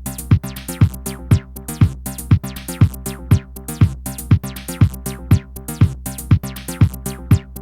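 Electronic techno beat from a drum machine and synthesizer: a kick drum about twice a second over a steady low bass drone, with pitched synth notes and hi-hat ticks between the kicks.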